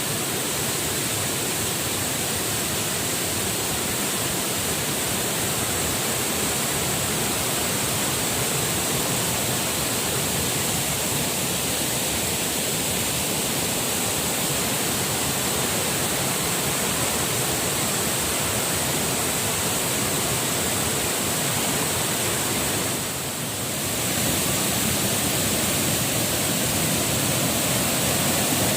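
Waterfall: a steady, dense rush of falling water, dipping briefly in loudness near the end.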